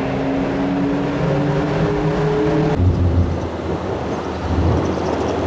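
Sports-car engine cruising in a road tunnel with a steady droning note. About three seconds in it cuts abruptly to a deeper, rougher engine rumble mixed with wind noise.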